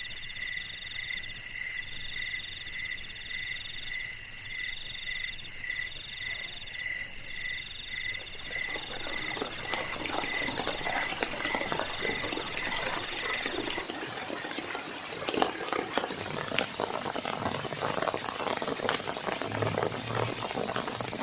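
Night insects calling in pulsed high trills, about three pulses a second, that stop suddenly partway through; a different steady high trill starts shortly after. Rain patters and drips alongside, building up from about halfway.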